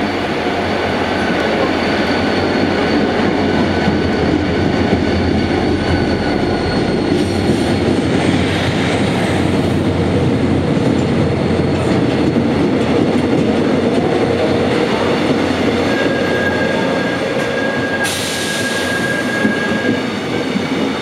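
Korail Mugunghwa-ho passenger train passing along a station platform, its diesel locomotive going by first and then the coaches' wheels running over the rails in a loud, steady rush. A thin, steady high whine from the running gear comes in near the end.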